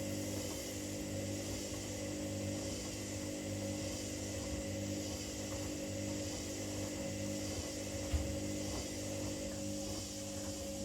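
Two washing machines, a Hoover H-Wash 300 and a Dynamic Next, running mid-cycle with a steady hum. There is one short low thump about eight seconds in.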